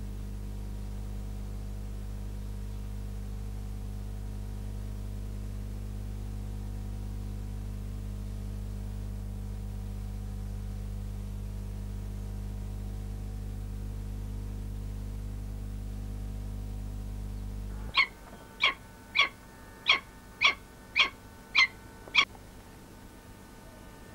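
A steady low hum cuts off suddenly. Then a falcon gives a series of eight short, evenly spaced, pitched calls over about four seconds.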